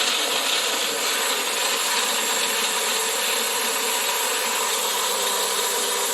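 Magic Bullet blender motor running steadily at full speed, pureeing a liquid jerk marinade of onion, peppers and seasonings until smooth.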